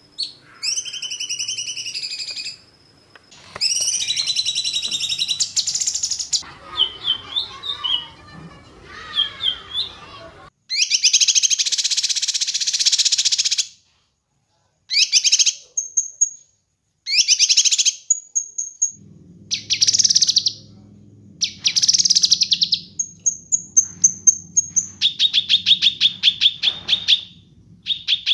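Songbird singing in loud, varied phrases: buzzy rattles, short high whistles and fast rapid-fire trills of repeated notes, the 'tembakan' style wanted in a masteran training track. Several phrases stop dead into silence, as on an edited recording, and a low steady hum runs under the song in the second half.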